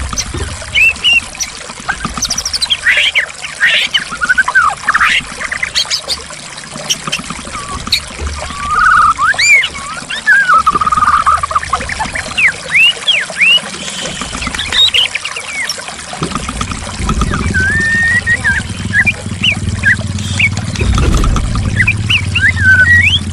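White-rumped shama (murai batu) singing a varied run of short whistles, rising and falling sweeps and trills over steadily trickling, pouring water. A deeper low rumble joins the water about 17 seconds in.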